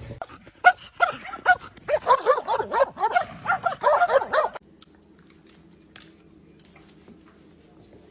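A dog whining and yipping in a quick run of short calls, each rising and falling in pitch, as if talking back. The calls stop abruptly about four and a half seconds in, leaving only a faint low hum.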